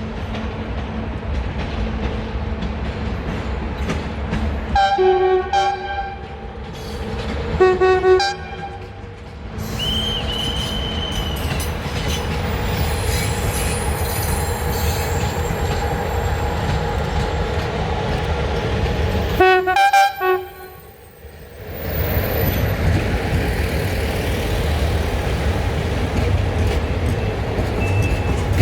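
Train horn sounding three short blasts, two close together about five and eight seconds in and a third about twenty seconds in, over the steady low running of a train at the station. A brief high-pitched squeal rings out about ten seconds in.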